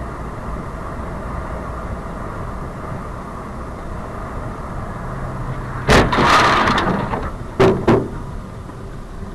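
Car on the road with a steady engine and road rumble, then a collision: a loud sudden crash about six seconds in that trails off over about a second, followed by two sharp knocks.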